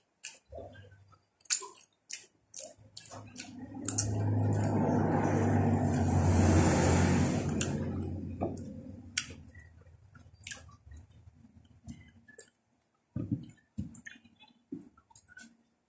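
Close-up chewing with short wet mouth clicks while eating boiled bananas. In the middle a louder rumbling noise with a low hum swells over a few seconds and then fades away.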